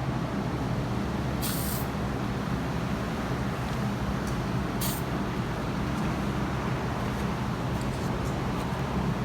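Two short bursts from an aerosol spray-paint can, one about a second and a half in and a shorter one about five seconds in, over a steady low background hum, with a few faint ticks.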